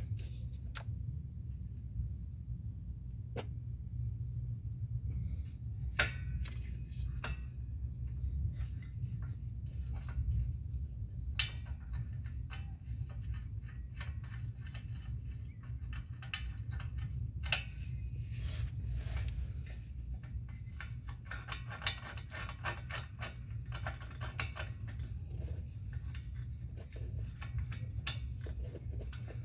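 Crickets trilling steadily over a low rumble, with scattered sharp metal clicks and taps of a wrench as the exhaust pipe bolts are snugged up. A quick run of clicking comes around two-thirds of the way through.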